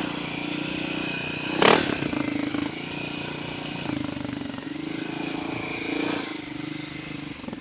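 Dirt bike engine running at a fairly steady low speed while riding, its pitch shifting a little, with one short sharp noise about a second and a half in.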